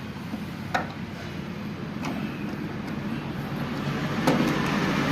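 Three separate metallic knocks, as of tools and gearbox parts being handled, over a steady rumble that grows louder after the last knock, about four seconds in.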